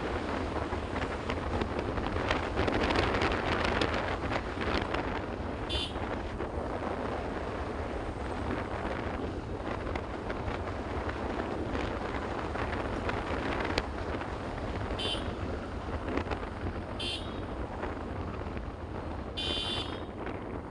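Motorcycle riding along a highway: steady engine and road rumble with wind buffeting the microphone. Short, high-pitched horn beeps sound four times, the last a little longer.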